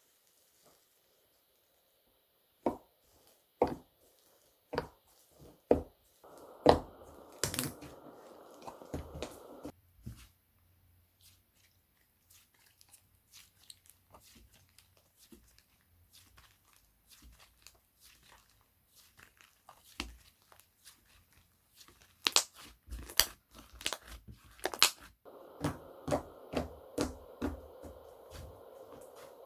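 Slime being squished and stretched by hand: sharp pops and clicks, at first about one a second and later in a quick cluster, with crackly tearing sounds while it is stretched.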